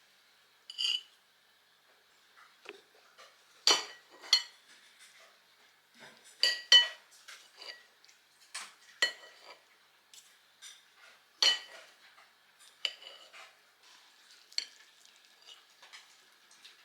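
Crockery and cutlery clinking: a string of sharp, ringing clinks, loudest about four, six and a half, and eleven and a half seconds in.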